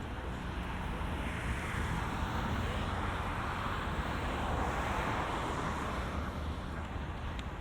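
Road traffic passing on the bridge: a vehicle's tyre and engine noise swells for a few seconds and fades, over a steady rumble of wind on the microphone.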